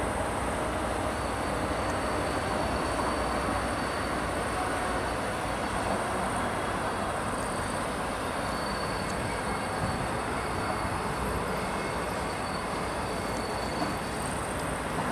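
Freight train hauled by two SBB red electric locomotives approaching on curved track, a steady rumble of locomotives and wheels on rail. A faint high whine holds steady from about a second in until near the end.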